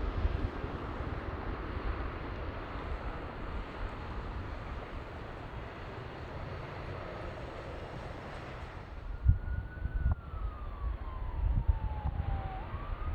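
Jet airliner engine noise, a steady rushing that slowly fades, then a siren wailing in the distance: one tone sliding slowly down and jumping back up. Wind buffets the microphone with low thumps near the end.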